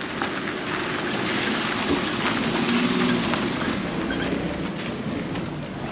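Steady wind rumbling on the camera microphone, over outdoor street background noise.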